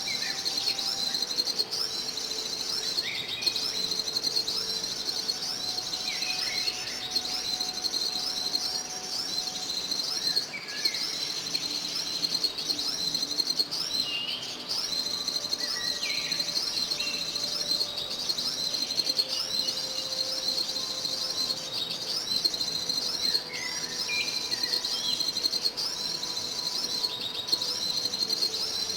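A steady, high insect chorus pulses in a repeating trill about once a second, with short bird chirps breaking in here and there.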